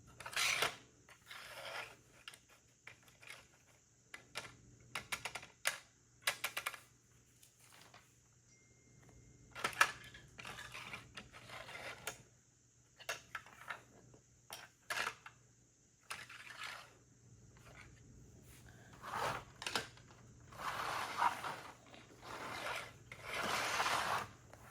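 Plastic Lego pieces being handled and pressed together: a run of short, sharp clicks and taps, with a few longer rustles near the end.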